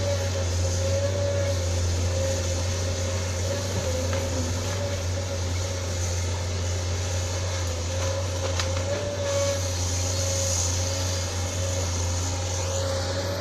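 Isuzu 6BG1 six-cylinder diesel engine of a Sunward SWE210 excavator running steadily: a deep hum with a whine that wavers slightly in pitch, and a brief rising whine near the end.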